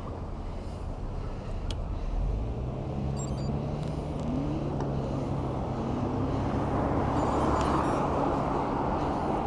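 Road traffic noise heard from a moving bicycle. A steady low hum sets in about two seconds in, a tone rises briefly a few seconds later, and the rushing noise grows louder toward the end.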